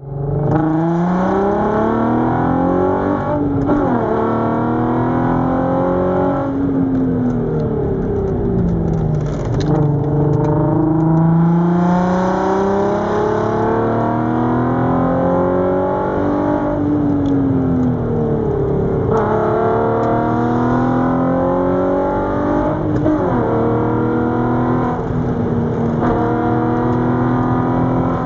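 Volkswagen R32's 3.2-litre VR6 engine through an Autospeed full exhaust, revving hard and dropping back again and again. The pitch climbs, then falls sharply at each gear change, several times over.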